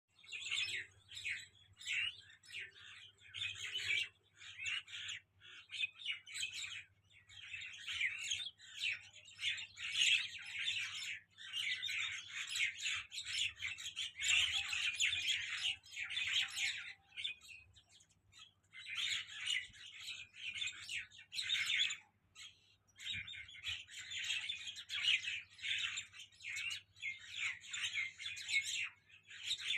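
A flock of birds chirping and twittering in dense, overlapping bursts, with short lulls about eighteen and twenty-three seconds in.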